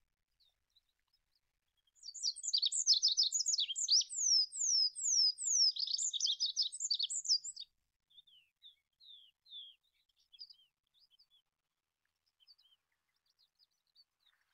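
Olive-backed pipit singing. About two seconds in comes a fast, high-pitched song phrase of rapid trills and downslurred notes lasting about five and a half seconds, followed by a few scattered softer notes.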